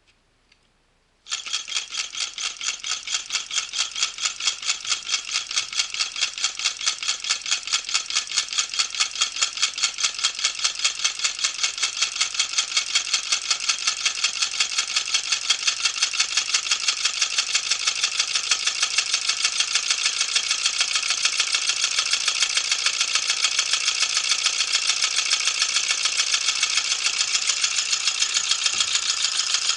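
Homemade Stirling engine running: a rapid, regular mechanical clatter that starts abruptly about a second in and grows a little louder over the next several seconds.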